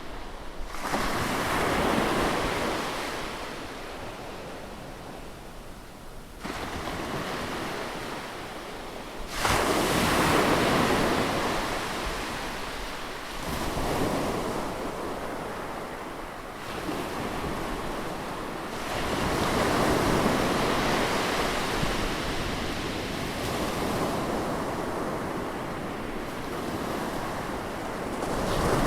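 Ocean surf: waves breaking and washing up the beach, the rush swelling and fading every few seconds, with one sharp surge about a third of the way in.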